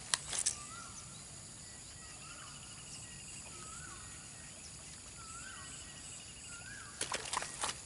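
A bird calling over and over, short whistled notes that rise and drop, with a faint insect-like trill behind. A few sharp clicks come at the very start and a quick cluster of them near the end.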